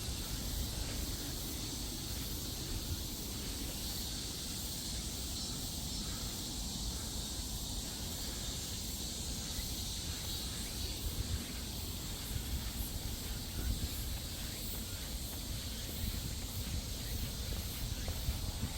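Steady outdoor ambience while walking: a high, even hiss over a low rumble.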